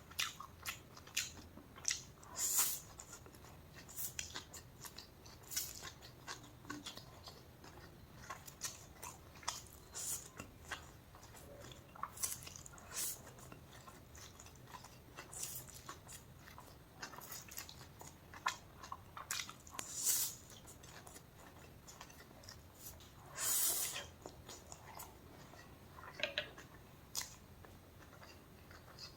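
A person eating close to the microphone: chewing and biting, with many short, sharp clicks and crunches at an uneven pace and one longer, noisier stretch about three-quarters of the way through.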